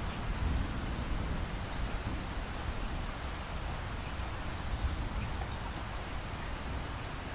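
Steady rainfall, an even hiss of many drops, with a low rumble underneath.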